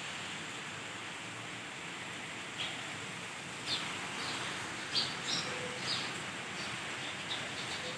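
Birds giving short, high chirps, a few scattered calls at first and more in the second half, over a steady outdoor hiss.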